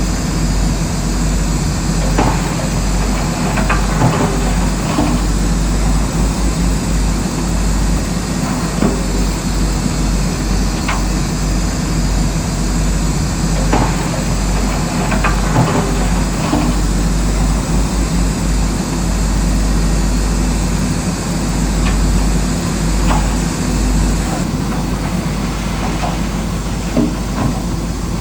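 Heavy diesel earthmoving machinery running steadily, with scattered sharp knocks and clanks of rock and steel.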